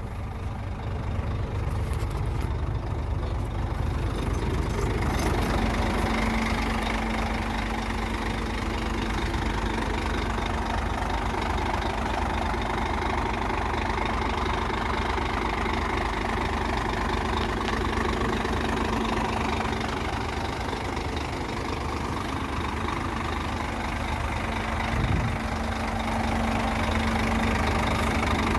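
Scania truck engine idling steadily. About five seconds in, a steady hum joins the idle.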